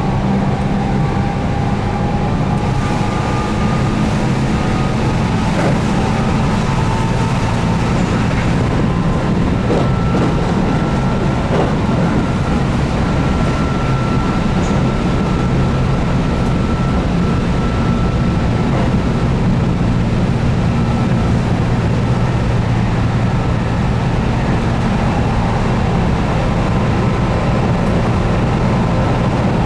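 Keihan 8000-series electric train running at speed: a steady rumble of wheels on rail with the whine of its DC traction motors, under field-added excitation control, drifting slowly in pitch.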